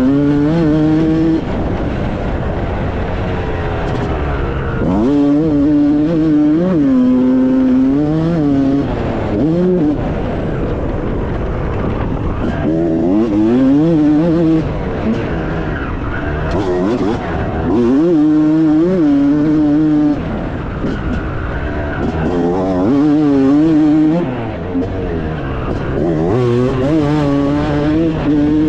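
Motocross bike engine revving up and down as it is ridden round the track, its pitch climbing with the throttle and dropping off every few seconds as it is eased off or shifted, with wind and tyre noise underneath.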